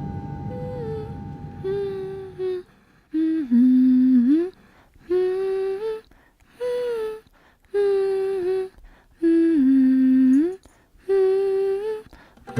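A single voice humming a slow melody in about eight short, held phrases with pauses between them.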